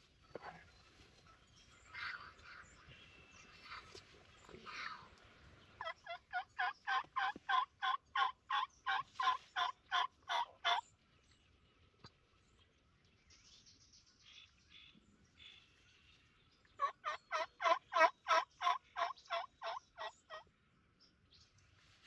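Two long runs of turkey yelps, loud and close, each a steady series of about four notes a second lasting four to five seconds, the second starting about six seconds after the first ends. Faint songbird chirps come between them.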